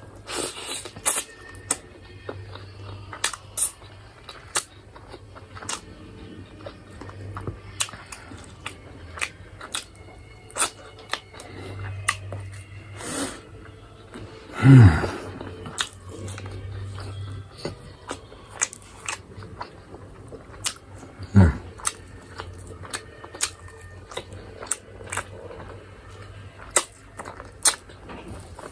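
Close-up chewing and mouth sounds of a person eating chicken and chips, with many short wet smacks and clicks. Twice, about halfway and again some six seconds later, a short low throat sound falls steeply in pitch.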